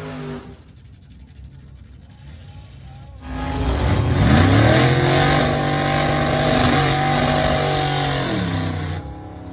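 Gasser drag car's engine: after a quieter stretch, it revs up sharply about three seconds in, holds a high, steady note for about four seconds, then drops back near the end.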